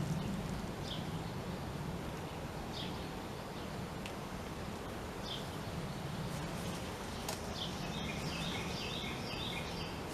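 Honeybee colony humming steadily as the hive is opened. Birds chirp now and then, and one sings a quick run of repeated notes near the end.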